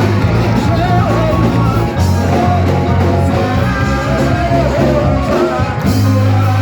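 Church worship band music with singing voices over a strong, steady bass line.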